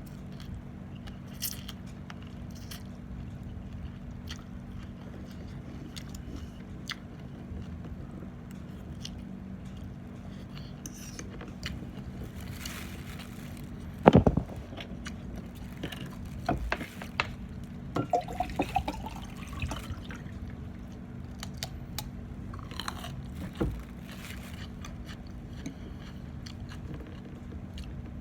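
A person chewing and eating Thai instant noodle salad and pork sausage close to the microphone, with scattered small clicks. A sharp knock about halfway through is the loudest sound. A steady low hum runs underneath.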